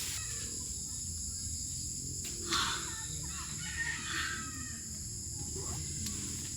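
A rooster crowing once, starting about two and a half seconds in and lasting roughly two seconds, over a steady high-pitched drone of insects.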